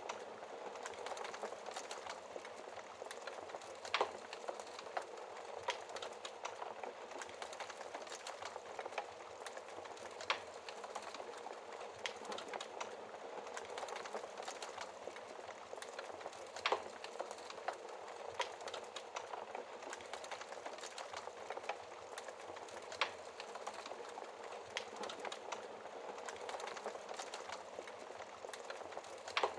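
Wood fire burning in a fireplace: a steady hiss and soft crackle with frequent small clicks and a few louder sharp pops, about one every six seconds.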